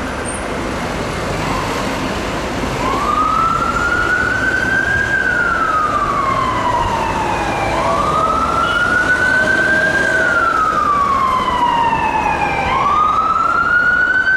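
Emergency vehicle siren on its wail tone, coming in about three seconds in and slowly rising and falling, each cycle about five seconds long, over a steady background noise. Near the end a second set of higher gliding tones joins it.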